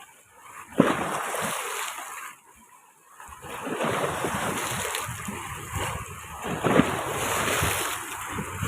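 Sea surf washing in, with wind on the microphone; the sound drops out almost completely twice, briefly near the start and for about a second from two seconds in.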